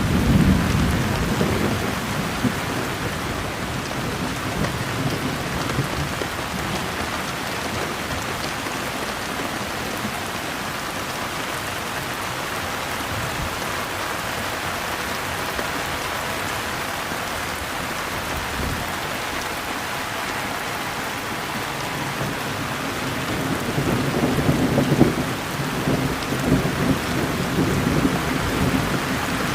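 Steady rain falling, with low rolling rumbles of thunder at the start and again from about 24 seconds in.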